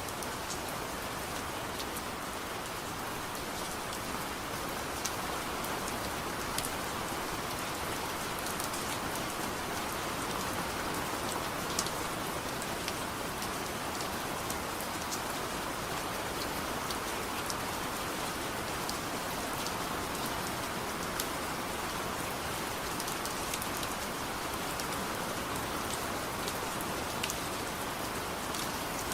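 Steady soft rain falling, an even hiss with scattered small sharp ticks.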